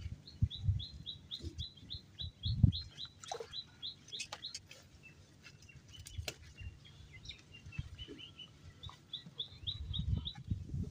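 A small bird calling with a fast series of short, high, slightly falling chirps, about four a second, for a few seconds and again near the end. A few low knocks and light clicks come in between, the loudest about two and a half seconds in.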